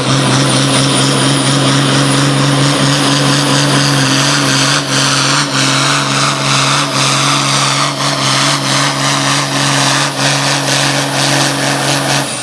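A competition pulling vehicle's engine running flat out at a steady high pitch during a sled pull, with a string of sharp cracks and clicks through the second half. It cuts off suddenly at the end.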